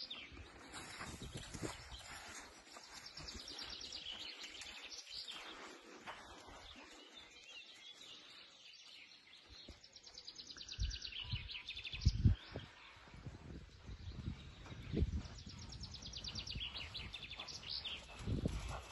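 Wild birds singing in rapid high trills over steady outdoor background noise, with a few dull low thumps in the second half, the loudest about twelve seconds in.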